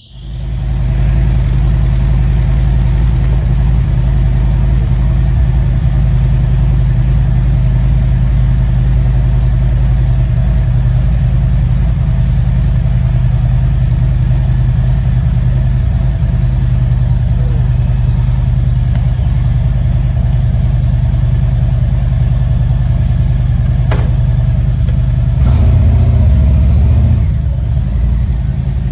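Harley-Davidson Road Glide Limited's V-twin engine starting up and idling with a steady low rumble, with a brief rise in engine speed a little over 25 seconds in.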